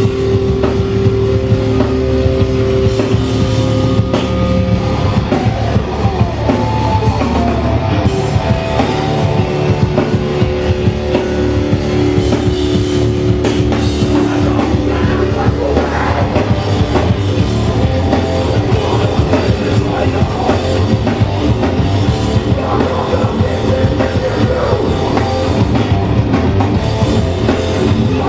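Hardcore punk band playing live: fast drums and distorted electric guitars with bass, loud and continuous, with some shouted vocals.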